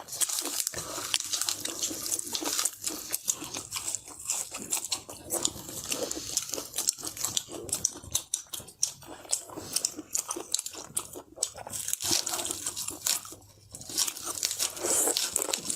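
Close-up eating sounds: a person biting and chewing food, a dense run of crunches and wet mouth clicks, with a short pause about 13 seconds in.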